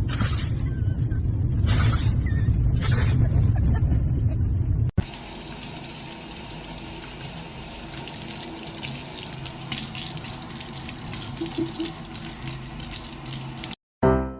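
A loud low rumble with a few brief hissy bursts, which cuts off about five seconds in. Then water runs and splashes steadily, an even hiss with small clicks, until a short break near the end.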